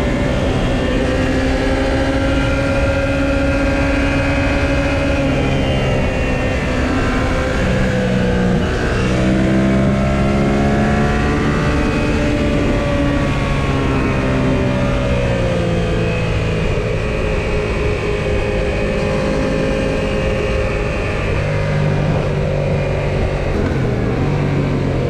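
Yamaha XSR700's parallel-twin engine under way, its note rising and falling several times as the rider changes throttle and gears, with steady wind and road rumble on the camera microphone.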